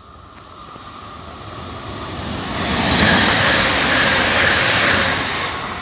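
Regional passenger multiple unit passing through a station at speed without stopping: a rushing clatter of wheels on rails that builds, peaks for a couple of seconds, then begins to fade as it goes by.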